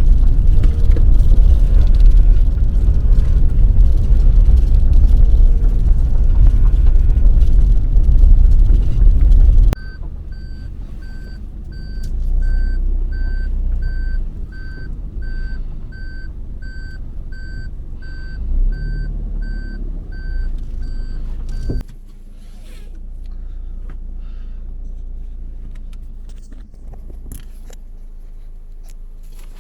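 Suzuki Hustler in motion with a loud low rumble for about ten seconds, then a steady repeating high beep, about one and a half a second, for around twelve seconds: the car's reverse-gear warning while it backs up. The beeping and the rumble stop together, leaving a low hum and a few light knocks.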